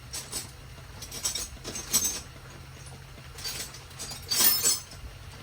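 Metal hand tools clinking and clattering in scattered short bursts, with the loudest clatter about four and a half seconds in, as tools are rummaged through for a socket extension. A low, steady hum runs underneath.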